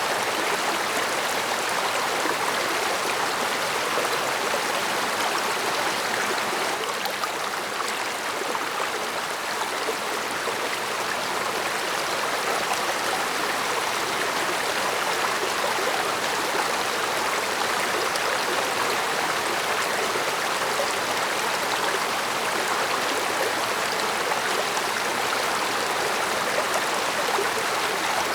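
Mountain stream running over rocks, a steady, even rush of flowing water with small gurgles and trickles.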